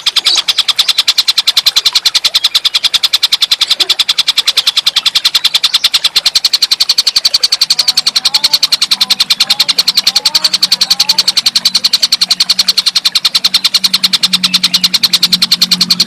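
Tengkek buto bird calling: a fast, even chatter of short, high notes, about ten a second, kept up steadily.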